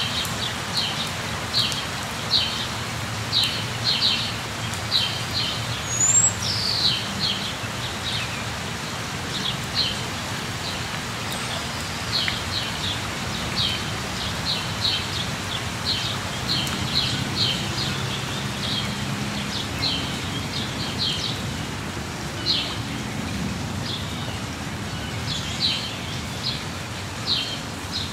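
Steady rain falling, with a songbird chirping over it in short repeated notes and one rising call about six seconds in. A faint low rumble runs underneath.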